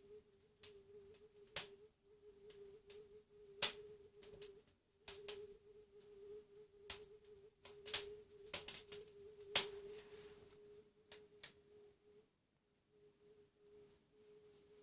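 Fire crackling in the firebox of a cast-iron stove-fireplace: irregular sharp pops and snaps, thinning out after about twelve seconds. A faint steady hum runs underneath.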